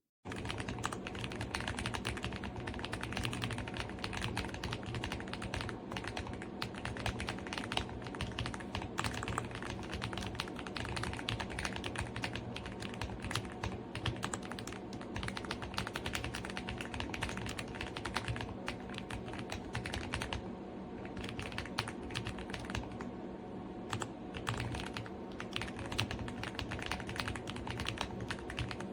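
Fast, continuous typing on an Aula F75 gasket-mount mechanical keyboard with Ice Vein linear switches: a dense stream of keystroke clacks that starts abruptly and slackens briefly about three-quarters of the way through.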